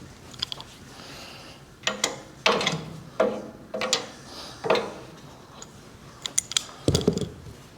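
Hand tools working on metal: a run of separate clanks with short ringing, then a quick series of clicks near the end.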